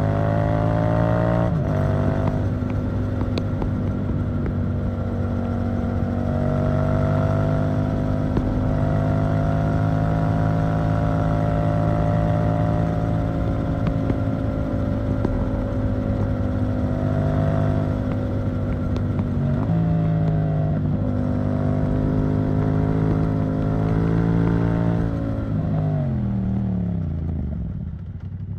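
Yamaha MT-07 parallel-twin engine through an Arrow Thunder titanium exhaust: revs climb briefly and step down as it shifts, then it holds steady revs for most of the time, with a short dip and pickup about twenty seconds in. Near the end the revs fall away as it slows on a closed throttle.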